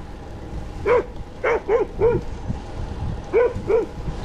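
A dog barking, six short barks in two quick groups, over a steady low rumble of wind or road noise.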